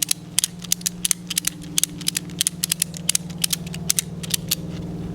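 Ratchet strap being cranked tight, a quick run of sharp clicks from its ratchet mechanism, about four or five a second, stopping near the end. A steady low hum runs underneath.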